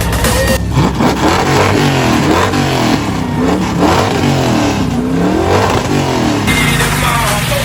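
A car engine is revved hard several times in a row, its pitch climbing and falling with each blip of the throttle, as in an exhaust competition. Music plays under it at the start and end.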